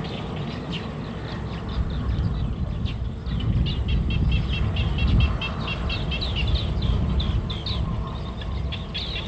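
Birds chirping in quick, repeated short notes, getting denser from about three seconds in, over a steady low rumble.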